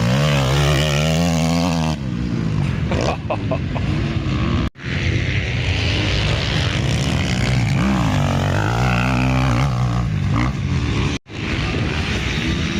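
Motocross bike engines revving, their pitch climbing and falling again and again as the bikes accelerate and shift. The sound cuts out abruptly for an instant twice.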